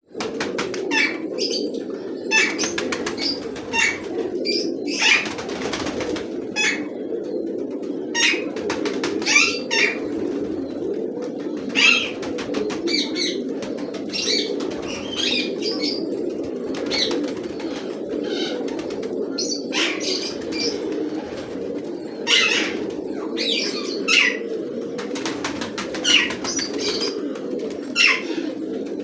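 Khal pigeons cooing in a steady low drone, with short, sharp, higher sounds every second or so over it.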